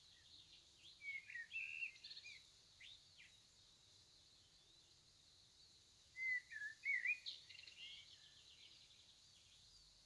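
Small birds chirping and twittering in short, wavering phrases, in two bouts: about a second in and again around six seconds in, over a quiet room.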